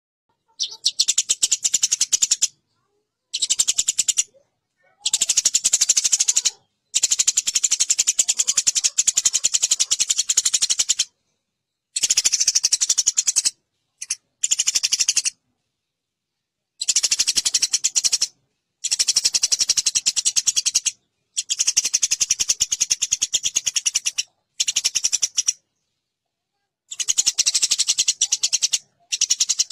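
Eurasian tree sparrows fighting: fast, harsh, high-pitched chattering in bursts of one to three seconds, broken by short silences.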